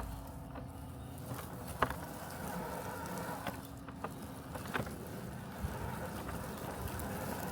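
Robotic lawn mower running with a steady mechanical hum, a few short clicks scattered through it.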